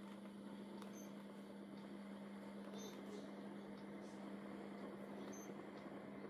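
Faint steady electrical hum with a low hiss, and a few soft ticks.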